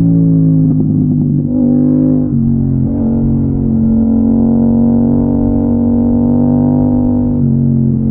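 Yamaha MT-07's parallel-twin engine running hard under way, its pitch stepping and dipping briefly a few times as throttle and gears change.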